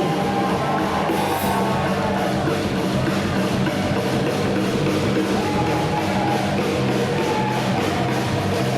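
Live rock band playing: distorted electric guitars, bass and drum kit, recorded loud and rough from the audience.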